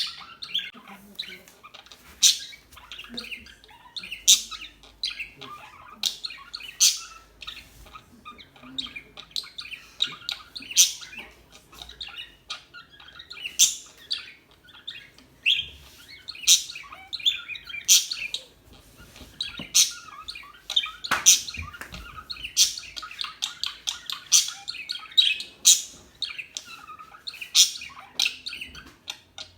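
Pet budgerigars chirping and chattering: a constant soft warbling chatter, broken every second or two by sharp, loud chirps.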